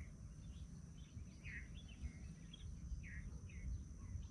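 Small birds chirping, short falling notes about two a second, over a low rumble of wind on the microphone.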